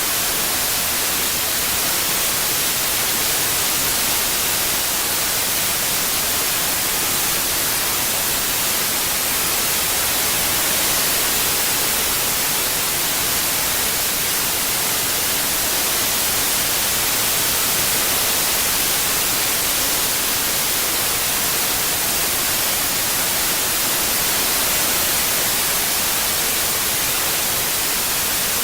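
Steady white noise, even hiss strongest in the high frequencies, with a slight slow swell in loudness.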